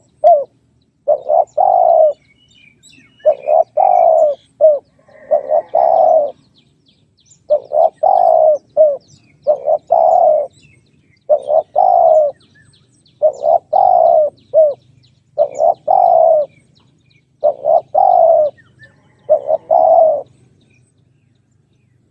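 Spotted dove cooing: a three-part call phrase repeated about every two seconds, ten times, each phrase a short note, a longer descending coo and a short closing note. Faint chirps from small birds sound in the background.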